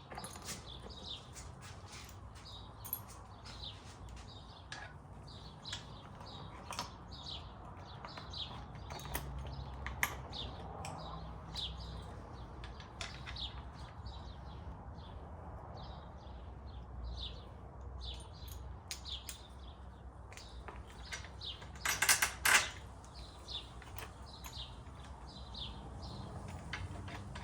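Small birds chirping repeatedly in short calls over a low steady background hum, with one brief, loud, rasping burst about three-quarters of the way through.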